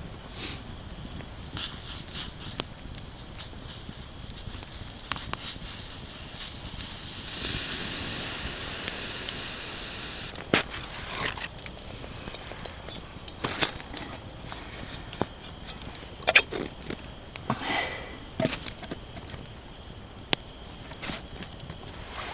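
Wood campfire crackling with scattered sharp pops. About seven seconds in, a steady hiss rises and lasts some three seconds.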